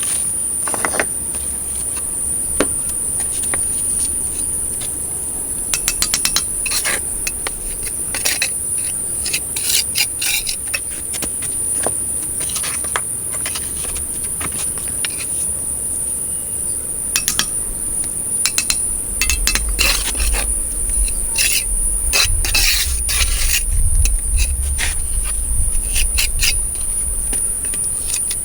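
Many sharp clicks, knocks and clinks, scattered irregularly and coming more often in the second half, over a steady high-pitched drone.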